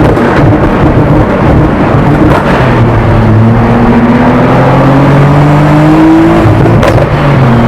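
Car engine under acceleration: its pitch climbs steadily for a few seconds, then falls away about six seconds in and picks up again lower, amid loud road noise.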